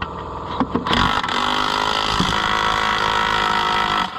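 Pneumatic impact wrench hammering on a tractor's rear wheel bolt, starting with a few clicks and then running hard for about three seconds before cutting off sharply. A steady machine hum runs underneath.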